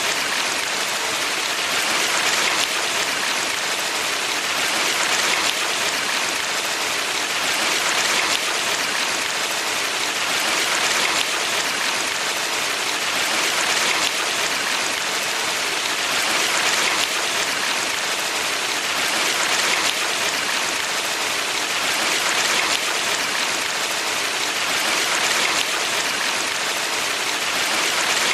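Valley stream water flowing steadily, a dense, even hiss that swells gently about every three seconds.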